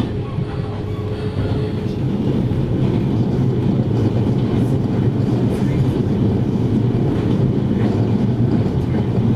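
JR Hokkaido 733 series electric multiple unit running along the line, heard from inside the passenger car: a steady rumble of wheels and running gear that grows louder over the first two seconds, then holds.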